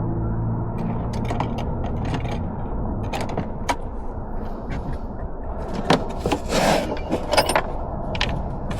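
Scattered clicks and light clinks of tools and parts being handled, with a longer scrape about six and a half seconds in, over a steady low hum.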